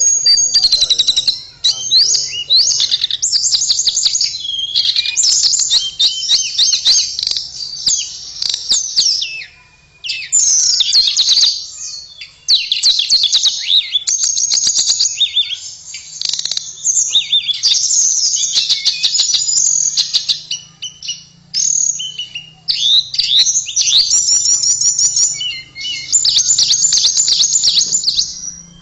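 Tledekan (blue flycatcher) in full song: a long run of fast, varied, high warbling phrases, broken by a couple of brief pauses.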